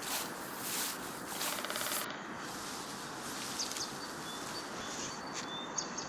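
Footsteps on the forest floor, a few steps in the first two seconds, then short high bird chirps over a steady outdoor background noise.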